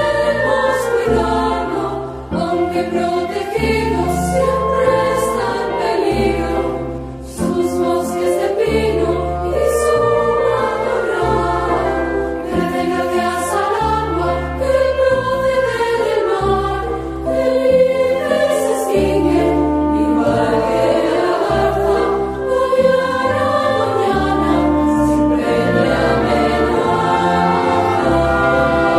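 A choir singing a song over a musical accompaniment with a low bass line.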